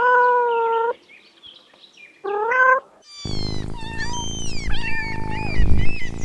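Domestic cat meowing: one long meow, then a shorter rising one about two seconds later. From about three seconds in, higher, shorter cries come quickly one after another over a steady low rumble.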